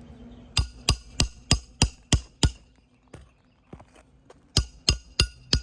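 A hammer striking a roof snake to drive roofing nails under a lifted asphalt shingle. A run of seven quick, sharp strikes, about three a second, then a pause, then four more.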